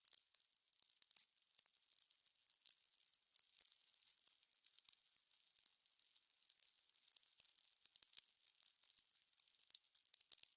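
Crackling fire: a soft steady hiss with frequent irregular sharp pops and crackles, faint and high-pitched.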